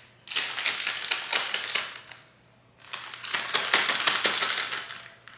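Plastic piping bag crinkling and rustling in two bouts as it is handled and filled with frosting.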